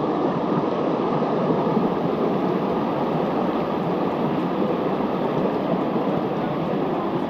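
Rushing river water at a waterfall, a steady, even wash of noise.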